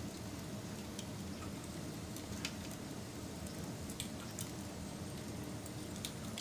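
Wood fire burning: a steady low rush of flames with a handful of sharp crackles and pops from the burning wood scattered through it.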